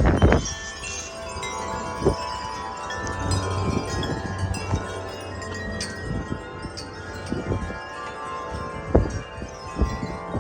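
Several large tuned wind chimes ringing continuously, their tubes struck over and over by strong gusts of wind. Wind buffets the microphone in low thumps, loudest at the very start and again around 2 seconds and near the end.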